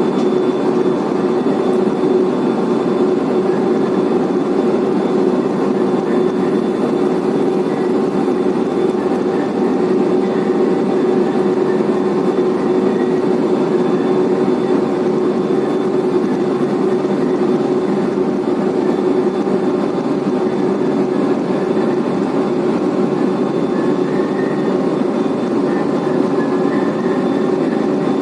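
Blast furnace main charging conveyor running: a steady mechanical whir with a constant hum.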